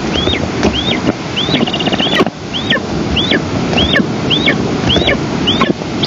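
Eastern imperial eagle nestling begging at the nest: a run of short, high down-slurred calls about two a second, with a few brief buzzy trills, over steady wind rushing on the microphone.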